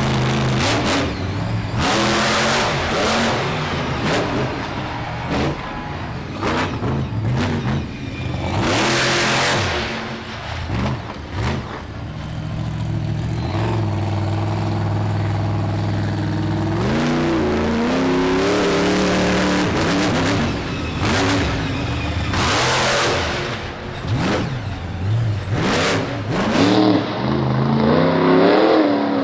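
Monster truck engine revving hard during a freestyle run. The pitch climbs and drops repeatedly, with loud surges of full throttle about 2, 9 and 23 seconds in.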